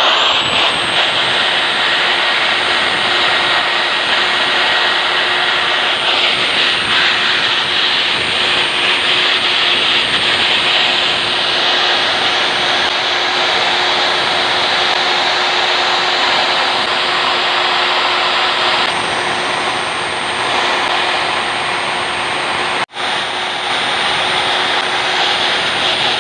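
Diamond core drill running steadily, its motor whining loudly as the bit cores into a concrete slab. The sound breaks off for an instant near the end.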